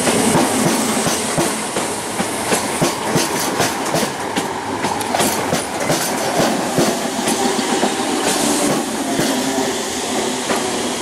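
Class 315 electric multiple unit running alongside the platform at close range, a steady rumble of wheels on rail with repeated clacks as the wheels cross rail joints.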